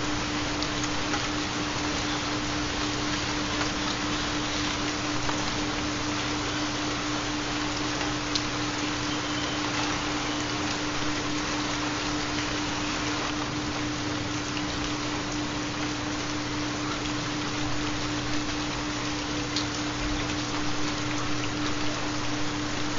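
Steady rain sound with a low, steady tone underneath, the carrier of a 4 Hz theta binaural beat.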